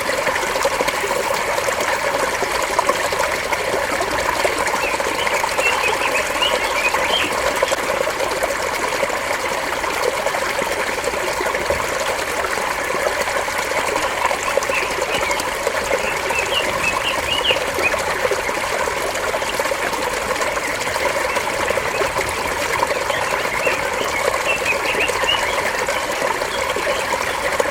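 Shallow water babbling over stones, steady throughout, with small birds chirping in short flurries three times.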